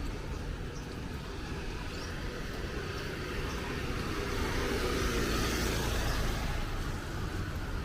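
A motor vehicle passing on a wet street, its tyre hiss and engine noise swelling to a peak about five to six seconds in and then easing off, over a steady low traffic rumble.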